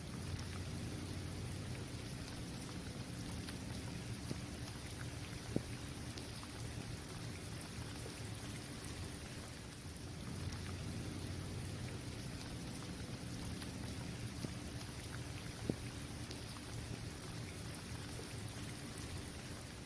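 Steady rain falling on an outdoor basketball court's hard surface, with two sharper single drop ticks standing out, about a quarter and three-quarters of the way through.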